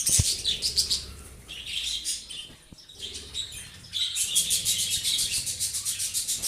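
Budgerigars chirping and chattering, with a short thump right at the start and a fast, dense run of chirps from about four seconds in.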